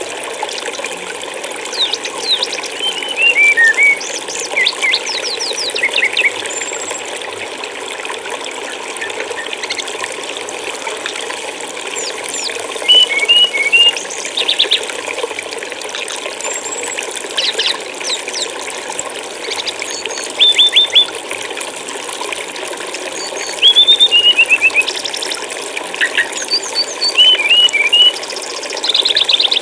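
Steady rush of flowing water with a small songbird calling over it: short chirps, quick trills and whistled notes in loud bursts several times.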